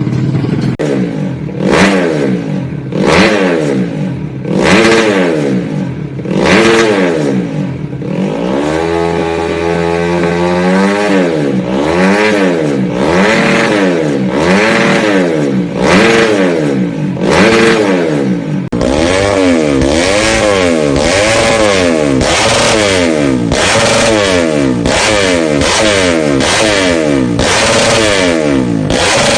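Bored-up 130 cc Yamaha Jupiter grasstrack motorcycle engine revved repeatedly in quick blips, its pitch rising and falling about once a second, with one slower drop and climb partway through. Near the two-thirds mark the recording changes and the blipping continues a little faster.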